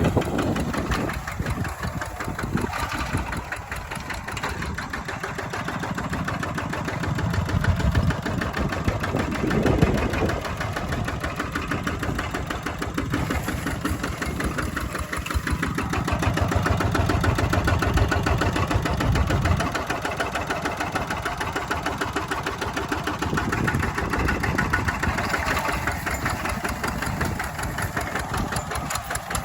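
Walking tractor's engine running with a fast, even chugging, getting louder twice as the load changes.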